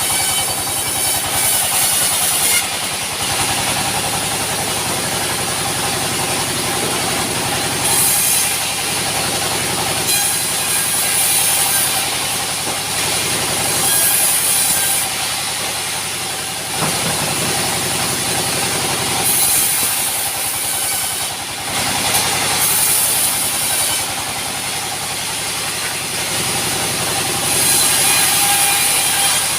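Sawmill saw running and cutting timber, a loud, continuous mechanical din with a high hiss that swells and fades every few seconds.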